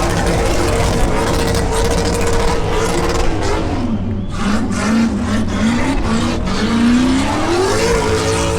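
V8 car doing a burnout, the engine held at high revs with tires spinning. About halfway through the revs drop sharply and waver low for a few seconds, then climb back up to the high steady note near the end.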